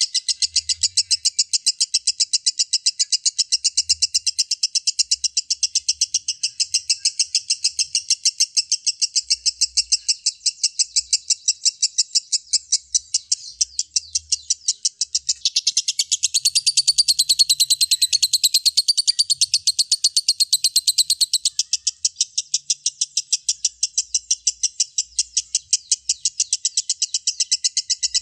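Lovebird 'ngekek' chatter: a long, unbroken, rapid string of short, shrill notes, several a second. It grows louder, with higher wavering notes, for about five seconds past the middle.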